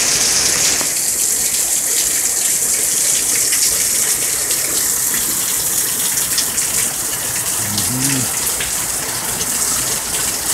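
Heavy rain pouring down in a steady, dense hiss, with scattered drips splashing through it.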